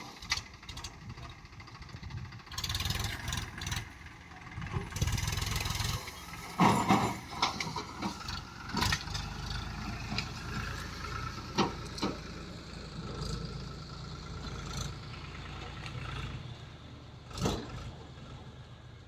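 Diesel engine of heavy farm machinery running steadily, with sharp knocks and short bursts of noise now and then.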